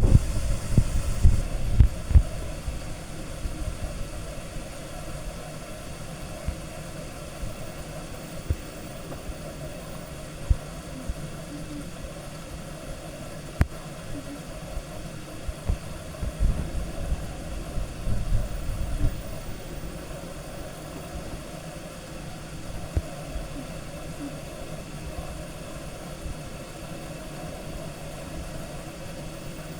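LG washing machine running with a load of wet towels: a steady mechanical hum with irregular low thuds as the heavy load shifts in the drum. The thuds are heaviest in the first two seconds and again a little past the middle.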